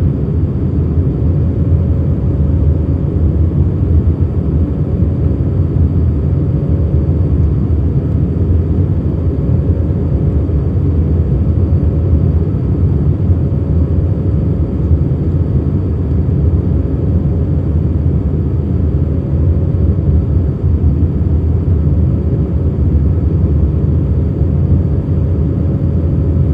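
Airbus A319 cabin noise in the climb: a steady low rumble of engines and airflow, with a faint steady tone running through it.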